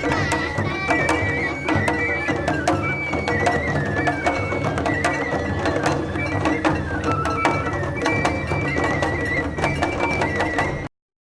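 Japanese festival hayashi music: a high bamboo flute (shinobue) playing a stepping melody over fast taiko drum and percussion strokes. The sound cuts off abruptly near the end.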